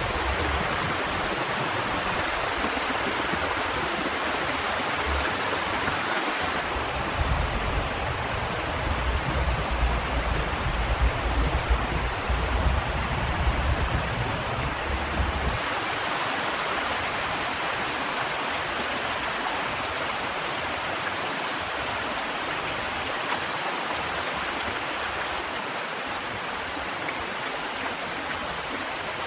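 Heavy rain falling, a steady dense hiss. For several seconds in the middle, a deep low rumble joins it.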